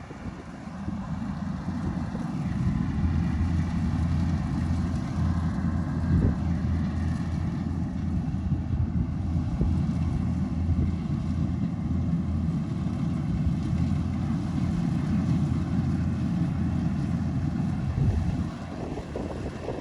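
Kubota DC-105X combine harvester's diesel engine and machinery running steadily under load, a low drone that grows louder over the first two seconds and eases off a little near the end.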